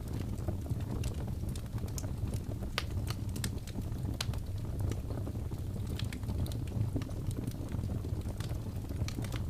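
Wood fire crackling in a fireplace: a steady low rumble of the burning logs with irregular sharp pops and snaps scattered throughout.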